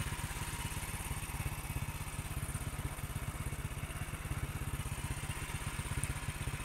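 Small motorcycle engine running steadily under way, a rapid even low putter of firing pulses with a hiss over it.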